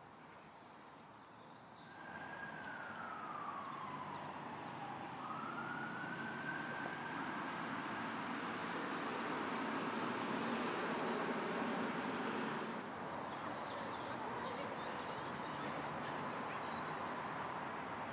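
A siren wailing: about two seconds in, its pitch falls slowly, then rises and holds high for several seconds, over a steady rushing noise. Faint bird chirps come through above it.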